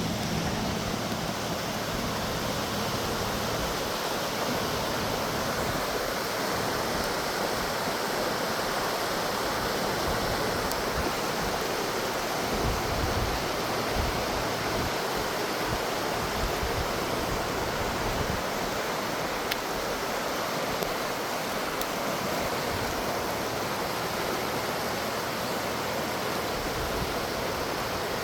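Steady rush of water, an even hiss that does not let up, with irregular low rumbles underneath.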